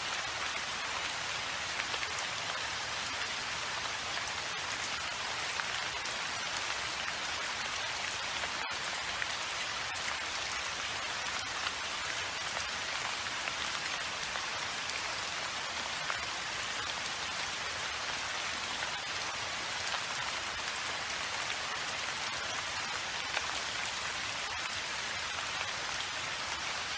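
Steady rain falling on a surface: an even hiss with scattered louder drop ticks. It cuts out for an instant about nine seconds in.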